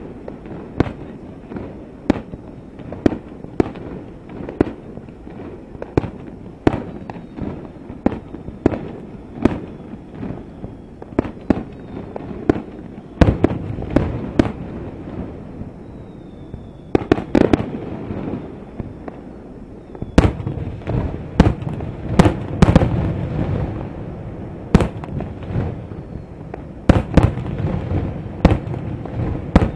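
Fireworks shells bursting over the sea: a steady run of sharp bangs, about one or two a second, with a rolling rumble between them. The bangs come thicker and the rumble louder in the second half.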